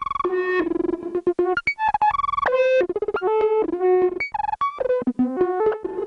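Korg Volca Modular synthesizer playing a fast, jumpy sequence of short pitched notes that change pitch from note to note, with clicky attacks.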